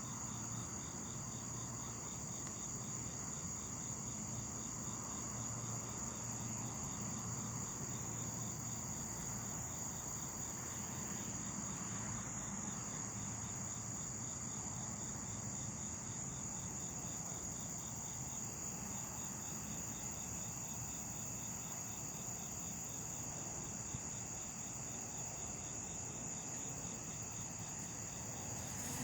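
Chorus of night insects, crickets, calling steadily: a continuous high trill with a regular chirp repeating a few times a second beneath it.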